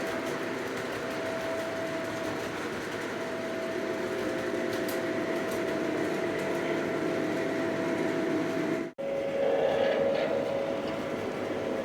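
Lionel Legacy O-gauge E6 model diesel locomotives running, their onboard diesel sound and motors giving a steady hum. About nine seconds in the sound drops out abruptly, then resumes at a slightly different pitch.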